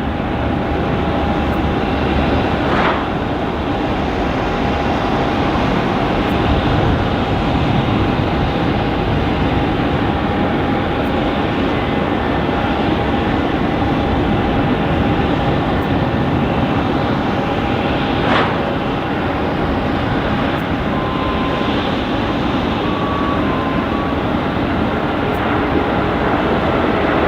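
Airbus A330-300 jet engines (General Electric CF6 turbofans) running steadily, a continuous roar with a thin steady whine over it.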